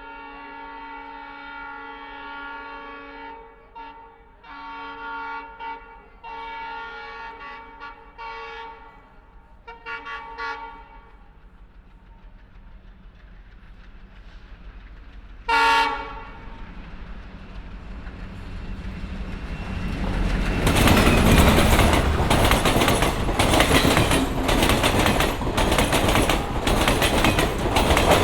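Train horn sounding a series of long and short blasts, each a chord of several steady tones, then one brief, louder blast about fifteen seconds in. The rumble of the train then builds until it passes loudly, with the rapid, regular clatter of wheels over rail joints.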